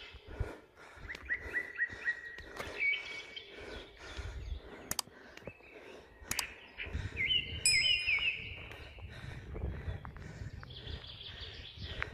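Small birds chirping in short runs of quick notes, the clearest about a second in and again around seven to eight seconds in, over scattered sharp clicks and a low rumble.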